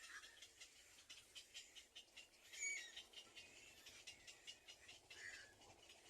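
Faint bird chirping: many short, high chirps throughout, with a louder call about two and a half seconds in and another about five seconds in.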